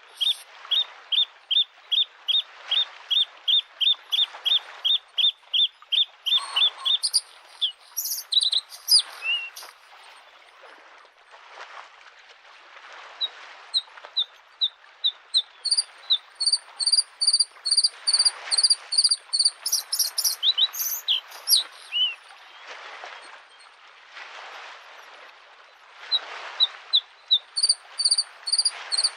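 Bluethroat singing: fast runs of repeated high notes, about five a second, broken by varied twittering phrases. Behind it, small waves wash on the lake shore, swelling and fading every few seconds.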